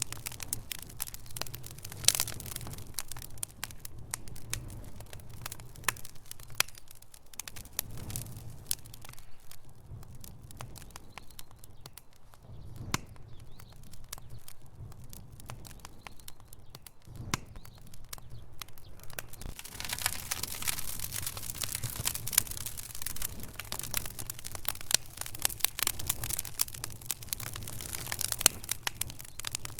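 Wood logs burning in a fireplace, crackling and popping with many small irregular snaps over a low rumble. The crackling thins out in the middle and grows busier again about twenty seconds in.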